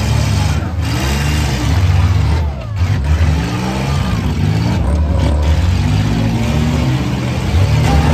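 Several demolition derby cars' engines running and revving together, their pitches rising and falling as the cars accelerate and manoeuvre.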